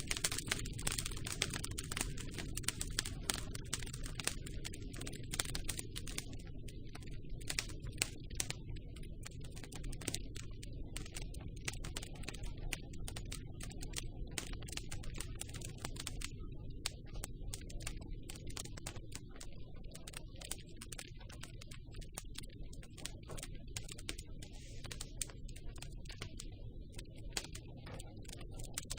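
Campfire crackling: dense, irregular snaps and pops over a steady low rumble of burning wood.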